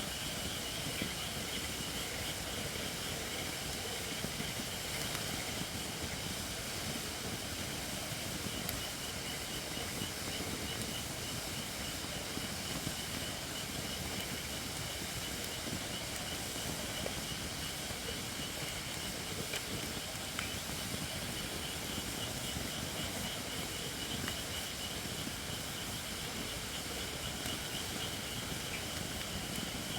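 Campfire of shirakashi (Japanese white oak) logs burning with a steady hiss of steam: the oak is not yet dry enough. A few faint crackles.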